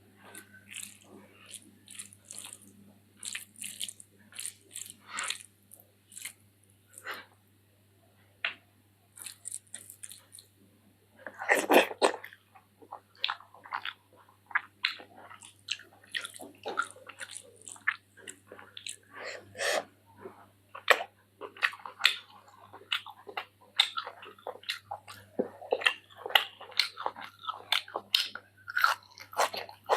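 Close-miked mukbang eating sounds: chewing and biting on spicy chicken-feet curry with rice, a run of wet mouth clicks and smacks. The clicks are sparse for the first several seconds and come thick and fast after one louder, longer burst about twelve seconds in.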